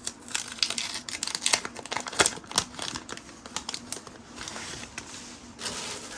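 1990 Fleer basketball trading cards being handled and flipped through: a string of crinkles, rustles and quick sharp snaps of card stock.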